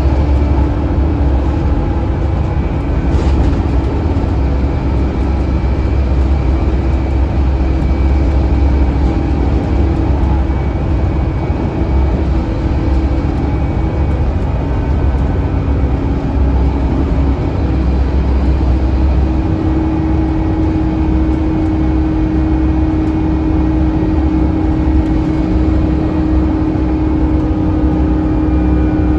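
Scania N230UD OmniCity double-decker bus's 9-litre five-cylinder diesel engine running under way with a steady low drone. Its pitch drops slightly about fourteen seconds in and rises again about five seconds later as engine speed changes.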